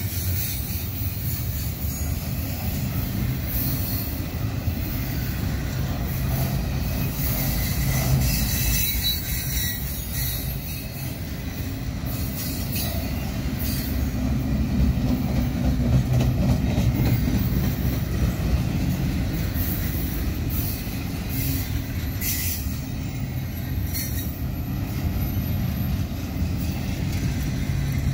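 Double-stack intermodal container train rolling past: a steady rumble of steel wheels on rail with rattling and clicking from the well cars, and a thin high wheel squeal near the end.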